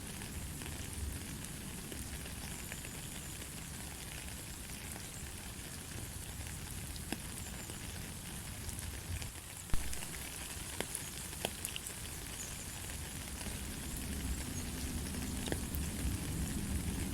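Steady light rain without thunder: an even hiss with scattered sharp drop taps, one louder tap a little before halfway.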